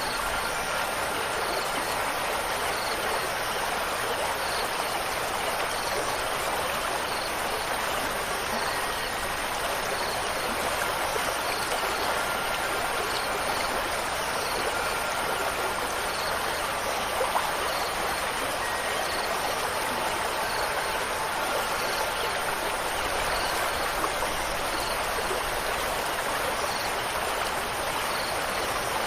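Running water, a steady even rush like a flowing stream, with faint short high notes scattered through it.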